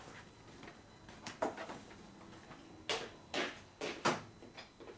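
Metal tools and engine parts being handled on a workbench: a few short knocks and clinks, spaced unevenly, most of them in the second half.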